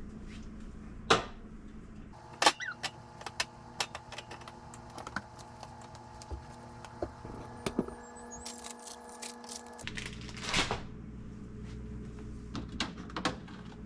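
Jars and plastic containers knocking and clinking as they are handled and set onto refrigerator shelves: scattered sharp taps and thunks over a steady electrical hum.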